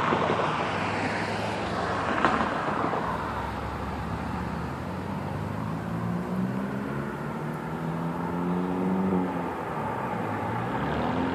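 Road traffic driving past: cars passing, then an engine accelerating away, its pitch climbing and dropping as it shifts gears.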